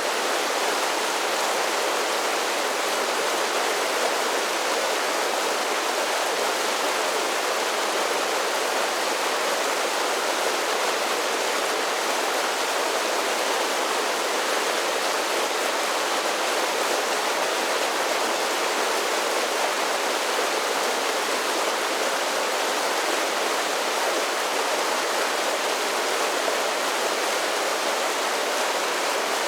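Mountain creek cascading over a series of small falls: a steady, even rush of falling water that does not change in level.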